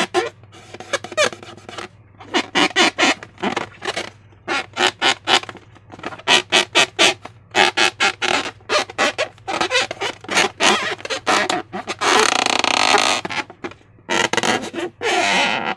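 Slime being squished and worked by hand, with wet squelching and squeaking in quick irregular bursts and one longer squelch about twelve seconds in.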